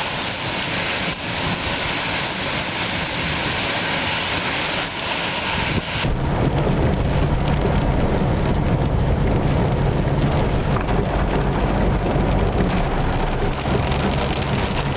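Heavy rain pouring in a thunderstorm, a steady hiss. About six seconds in, the sound changes abruptly to a louder, deeper rumble of rain and storm noise.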